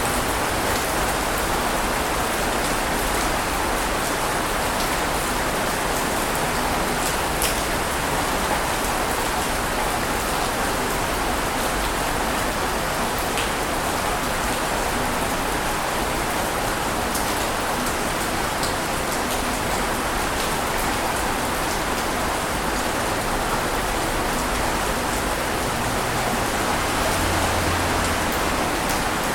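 Steady, even hiss of water noise with no rise and fall of breaking waves, dotted with a few faint ticks.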